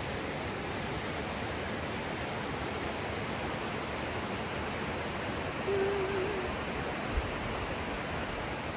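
Steady rushing of creek water and small waterfalls, an even hiss with no pauses. A short hum from a person's voice comes a little past the middle.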